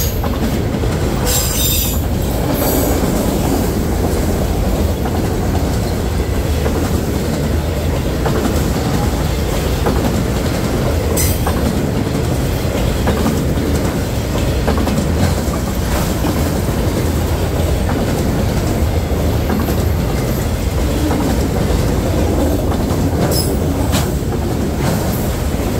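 Norfolk Southern freight train rolling past at close range: a steady rumble of cars and wheels on the rails. A few sharp clicks ring out from the wheels over the rail joints, about five in all.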